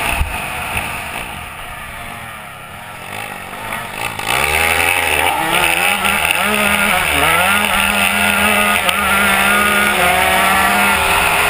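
Small motorcycle engine running, quieter for the first few seconds, then louder from about four seconds in, its pitch rising and falling as it is revved.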